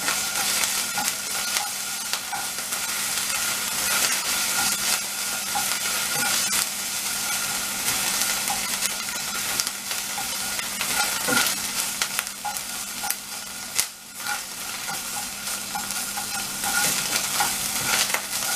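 Ginger paste sizzling steadily in a little hot oil in a nonstick frying pan. A plastic slotted spatula stirring it scrapes and ticks against the pan.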